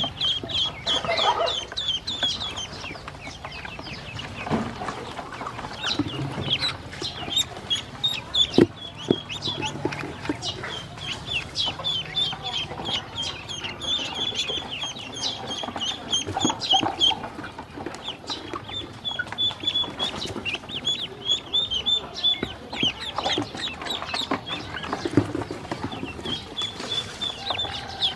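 A group of baby ducklings peeping: many short, high, overlapping cheeps in rapid runs, with scattered clicks and taps.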